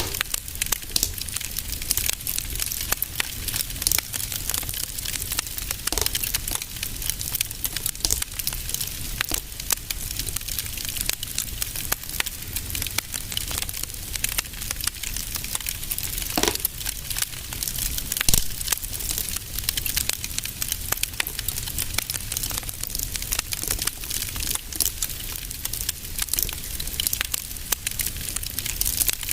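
Fire crackling in a fireplace: frequent irregular snaps and pops over a steady hiss and a low rumble.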